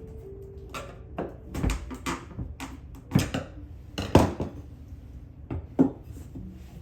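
A string of irregular knocks and clunks, the loudest about three, four and six seconds in.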